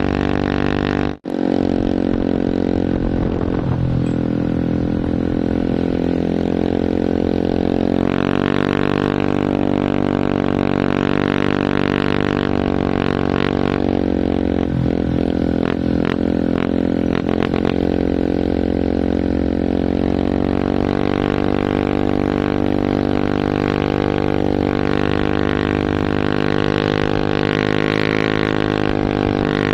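Heavy truck engine running with a steady, even drone, with a brief cut-out about a second in and a few short clicks and rattles midway.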